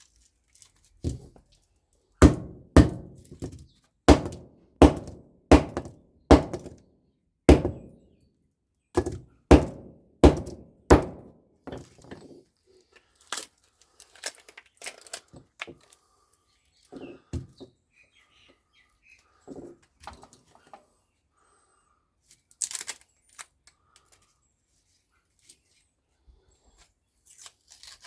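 About a dozen heavy knocks on a scrapped microwave oven transformer come in quick succession, roughly half a second to a second apart, each with a short ring. They give way to scattered lighter clicks and taps, with one brief scraping hiss near the end.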